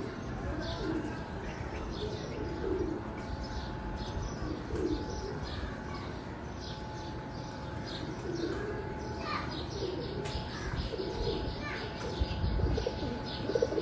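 Domestic pigeons cooing over and over, with many short high bird chirps mixed in. A louder low rumble comes near the end.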